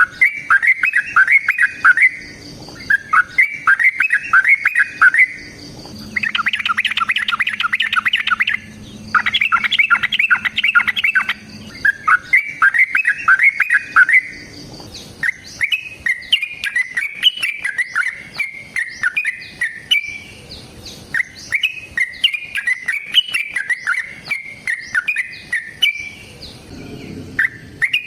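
Yellow-vented bulbul singing its rapid, chattering song, the long-run fighting song that bird keepers use as a lure. It comes first as a series of quick-note phrases of about two seconds each, then about halfway through as one longer unbroken run of notes.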